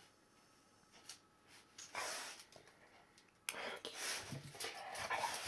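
Akita-mix dog's short breathy snorts and huffs, the sound of an excited, happy dog. There is one snort about two seconds in, then a quick run of them from about three and a half seconds on.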